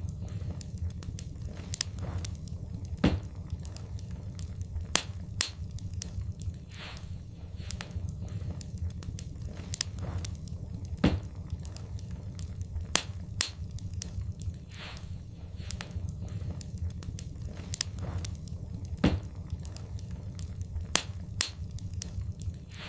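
Wood fire burning in a fireplace: irregular sharp crackles and pops, a few much louder than the rest, over a steady low rumble.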